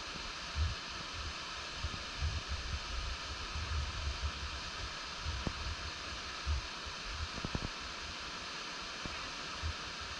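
Steady rushing of a mountain stream's water, with wind buffeting the microphone in low rumbles and a few faint ticks.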